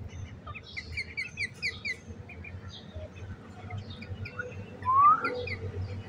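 Birds chirping: quick runs of short, high, falling chirps, then a louder rising call about five seconds in.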